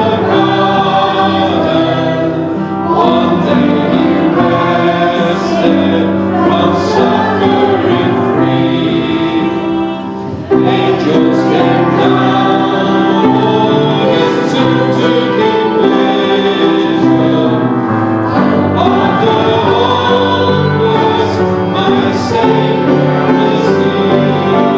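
Gospel hymn music: a choir singing sustained chords over instrumental accompaniment, with a brief softer passage about ten seconds in before the full sound returns abruptly.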